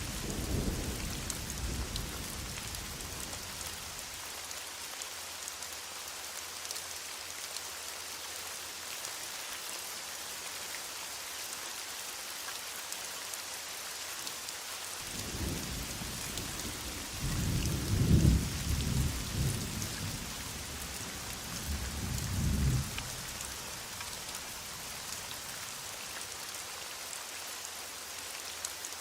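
Heavy rain falling in a steady hiss, with thunder rumbling. A rumble fades away over the first few seconds, and a second roll of thunder builds about halfway through, swelling to two loud peaks before dying away.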